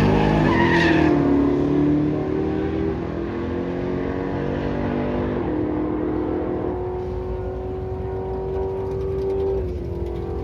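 A drag racing car's engine accelerating hard down the strip. Its pitch climbs, then drops back at each upshift, several times, and the sound grows quieter as the car pulls away.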